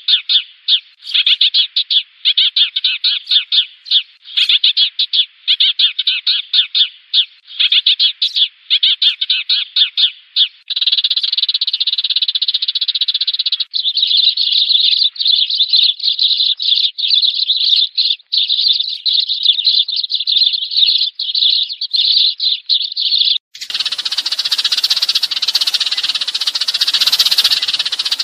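Sparrows chirping fast, repeated calls used as a lure recording to draw a flock. For the first ten seconds or so the chirps come in short bursts with brief gaps, then they run on in an unbroken chatter, and near the end the sound abruptly turns rougher and hissier.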